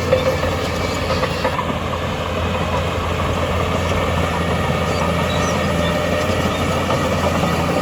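Heavy construction machinery running steadily: a diesel engine hums under a constant rough rattle.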